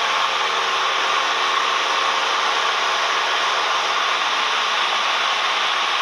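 Cabin noise of a Cessna 172M in flight: its Lycoming O-320 four-cylinder engine and propeller running at a steady setting, with airflow, heard as a loud, even drone.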